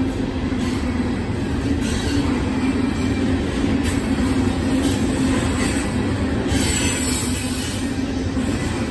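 CSX coal train's hopper cars rolling past on the rails: a steady rumble of wheels, with higher wheel squeal coming and going every second or two.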